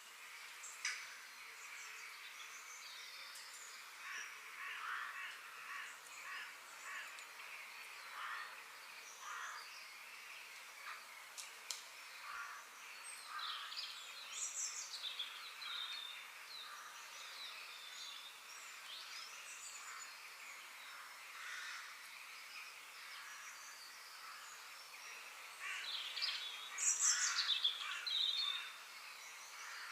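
Outdoor ambience of several birds chirping and calling over a steady background hiss, with a louder flurry of calls near the end.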